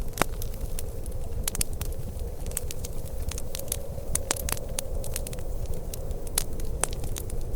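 A fireplace fire crackling, with many irregular sharp pops and snaps over a steady low rush.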